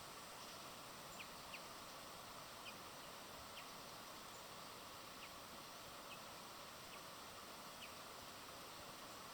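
Faint outdoor ambience with steady hiss, and a small bird giving short chirps about once a second.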